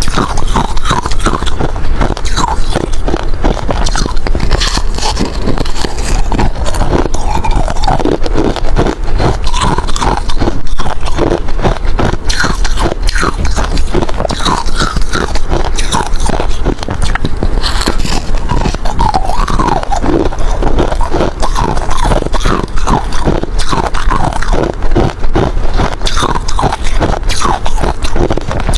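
Hard ice being bitten and chewed close to the microphone: continuous dense crunching and cracking with no pauses.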